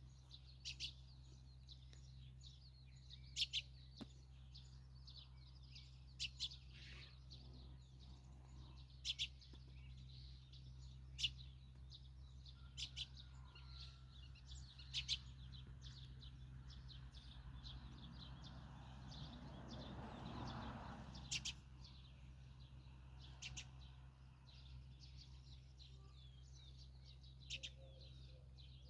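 Songbirds chirping, many short sharp calls scattered throughout, over a faint steady low hum. About two-thirds of the way through a brief swell of rushing noise rises and fades.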